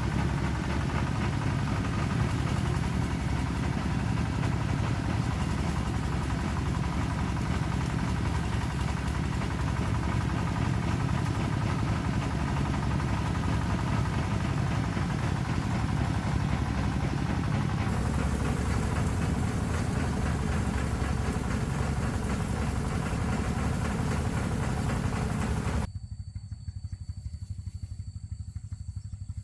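A small engine running steadily. Near the end the sound drops off abruptly to a quieter, thinner running noise.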